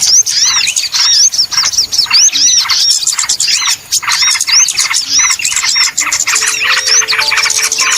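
Many small birds chattering together in a dense, rapid run of high, arched chirps, as used in a lure recording for trapping small songbirds. Steady low tones come in under the chirping about six seconds in.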